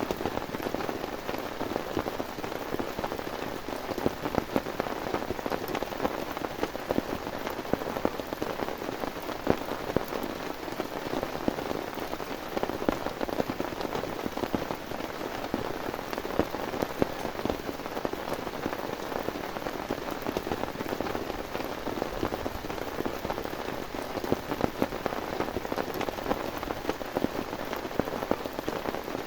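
Heavy rain falling steadily, with a dense stream of individual drops hitting a surface close by.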